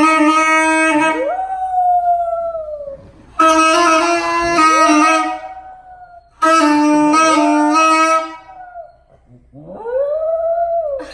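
A wind instrument sounds three long, loud held notes at a steady pitch, and a dog howls along after each one, its howl rising and then falling in pitch. A last howl comes on its own near the end.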